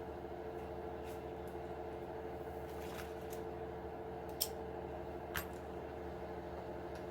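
A few small, sharp clicks of small parts and tools being handled, over a steady background hum; the loudest click comes about four and a half seconds in.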